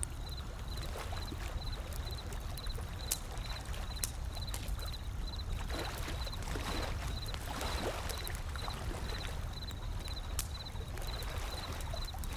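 Wood fire crackling with scattered sharp pops over the low, steady wash of ocean waves, the waves swelling briefly about halfway through. A faint high chirp repeats about two to three times a second.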